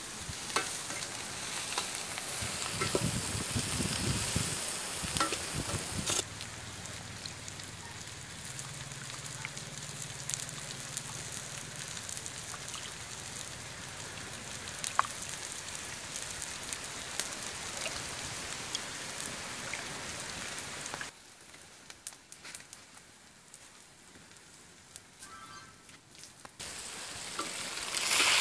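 Food sizzling in a hot wok, a steady frying hiss that drops quieter for a few seconds and then swells sharply near the end as goat blood is poured over chopped onions in the pan.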